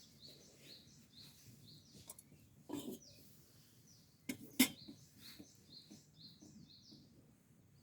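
A small bird chirping over and over in short quick notes, with two sharp knocks, the second about halfway through being the loudest sound, over a low background rumble.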